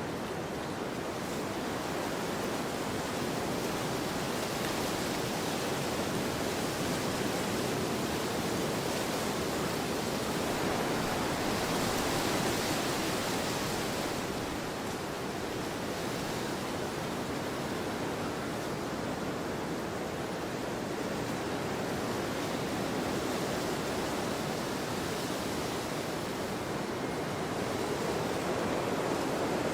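Wind blowing steadily across a field, a continuous rushing that swells a little about twelve seconds in and again near the end.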